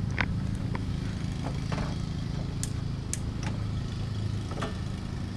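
Toyota 3S-GTE turbocharged four-cylinder engine of a 1988 Celica AllTrac idling steadily, with a few light clicks from hands working on hoses in the engine bay.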